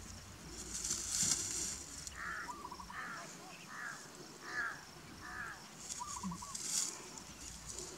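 A bird calling over and over, about six short calls evenly spaced less than a second apart, in the middle of the stretch.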